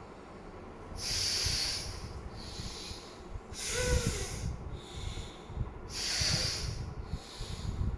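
A man breathing forcefully in and out through one nostril at a time in Anulom Vilom alternate-nostril breathing at medium pace: a series of hissy nasal breaths, about one every second or so, alternating louder and softer.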